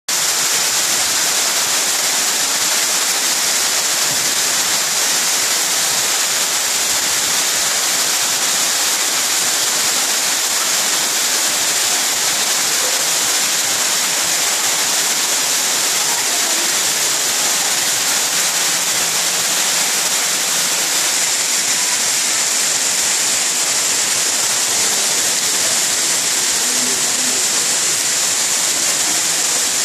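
Steady, unbroken rush of falling water, even and hissy, with no changes.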